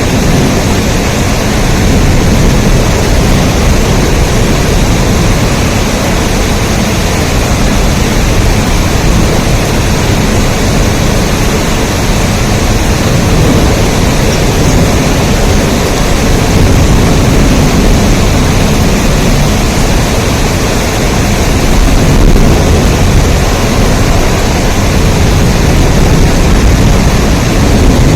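Heavy rain falling steadily: a dense, even rush with a deep rumble underneath.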